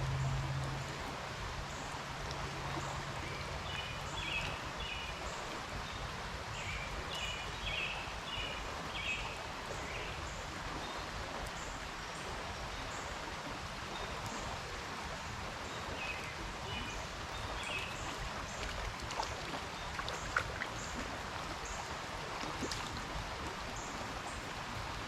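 Creek water running steadily, with short bursts of high chirping calls three times.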